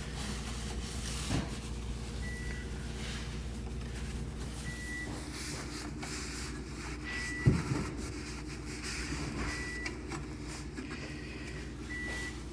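Sub-Zero refrigerator beeping after power-up: short high beeps about every two and a half seconds over a steady low electrical hum, with one thump about seven and a half seconds in.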